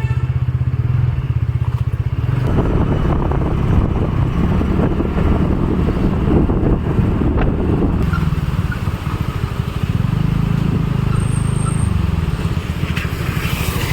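Motorcycle engine running steadily while riding, with a rushing noise joining it about two seconds in.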